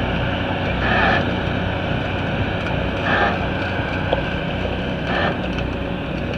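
Steady rumbling background noise of a busy demolition-derby pit area, with wind on the microphone, broken three times, about two seconds apart, by short higher-pitched bursts.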